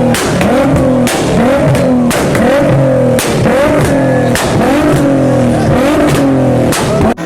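Car engine revved hard again and again, its pitch climbing and dropping about twice a second, with sharp cracks between the revs.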